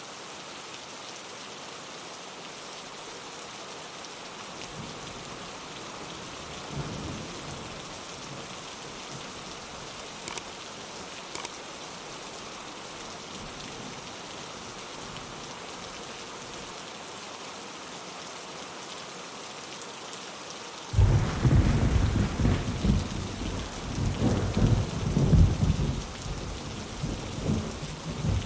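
Steady rain falling on a window, with two sharp drip ticks near the middle. About 21 s in, a loud, low thunder rumble breaks in and rolls on to the end.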